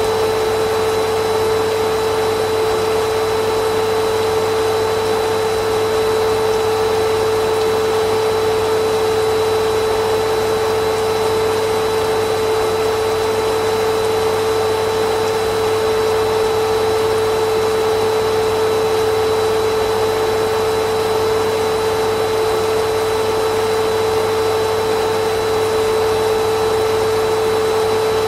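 Vacuum cleaner motor running steadily, an even whir with a strong steady hum.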